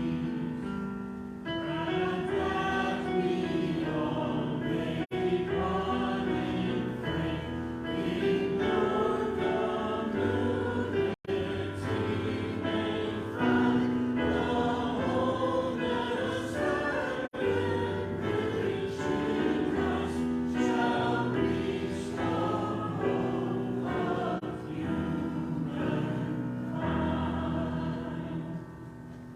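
Congregation singing a hymn in several parts over a sustained accompaniment, ending on a chord that fades near the end.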